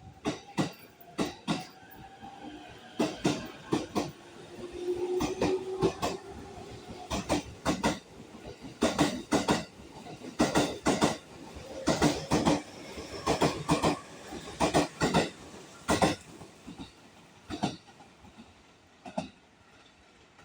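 A train running over rail joints, its wheels clacking in quick groups of two or three, with a faint rising motor whine in the first few seconds; the clacking thins out near the end.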